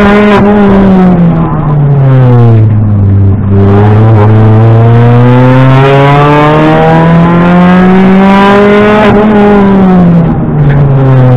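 Rally car engine heard from inside the cabin, driven hard on a stage: the engine note falls about a second in as the driver slows, then climbs steadily for about five seconds under full throttle before dropping sharply again near the end.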